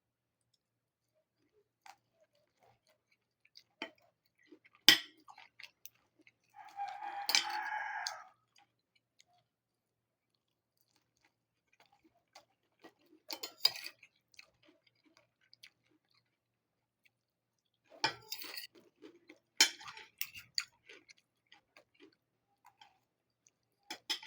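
Chicken eating: scattered sharp taps, singly and in short clusters, as the beak pecks at the food, with one longer, softer sound lasting under two seconds about seven seconds in.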